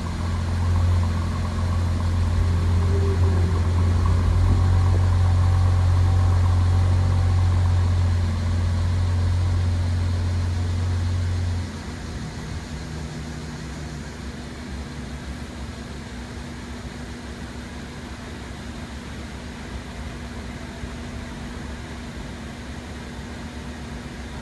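Mercedes-Benz E400 engine idling after a cold start, a steady deep drone that drops away abruptly about halfway through, leaving a quieter steady running hum.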